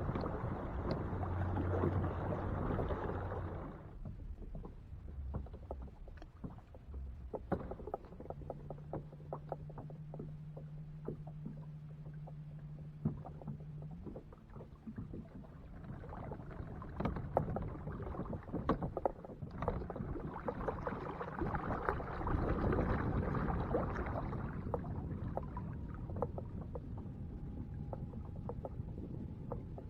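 Sounds of a fishing kayak out on the water: a rushing noise that swells at the start and again in the second half, with many small knocks and clicks, and a steady low hum for about six seconds in the middle.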